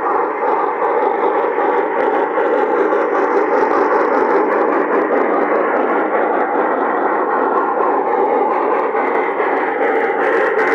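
O-scale MTH Proto-Sound model train running with a steady mechanical rush, with a few sharp clicks near the end.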